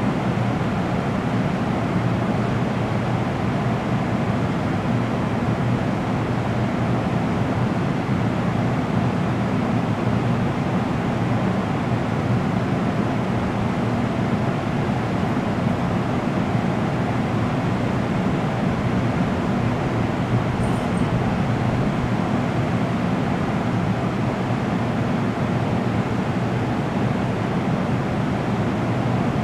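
NJ Transit bi-level commuter train standing at the station platform, its onboard equipment running with a steady, even hum that neither rises nor falls.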